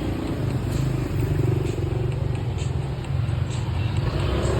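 Steady low rumble of motor vehicle engines running, as in street traffic.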